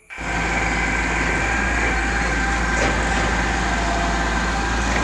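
Construction machinery engine running steadily, a constant low hum with a steady whine over it; it cuts in abruptly at the start.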